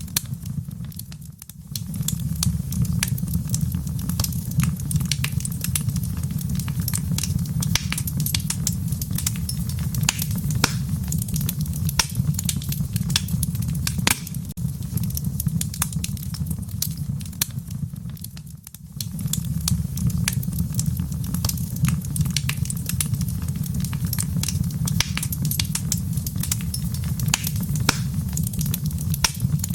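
Fire in a fireplace crackling and popping, with many sharp snaps over a steady low rumble. The sound dips briefly twice, about a second and a half in and just past halfway, then carries on as before.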